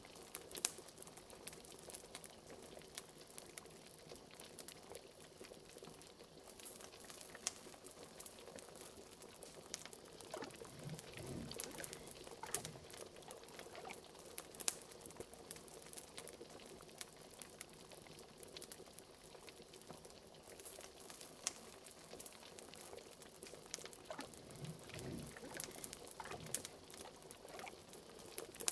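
Liquid bubbling at a slow boil, like a cauldron simmering, mixed with the crackle and snap of a wood fire. A few deeper bubbles gurgle around the middle and again near the end.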